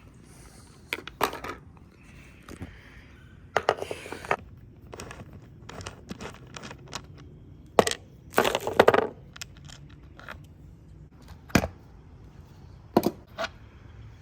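Rummaging through a bag of skateboard spare parts: crinkly rustling of packaging in two longer spells, with scattered sharp clicks and knocks of small hard parts being handled.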